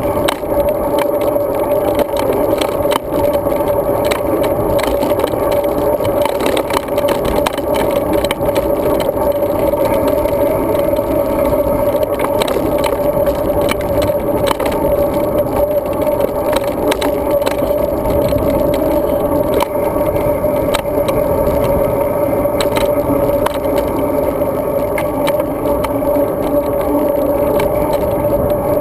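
Road bike being ridden: a steady rush of tyre and road noise with a constant hum, and a dense run of small clicks and rattles from the bike over the pavement.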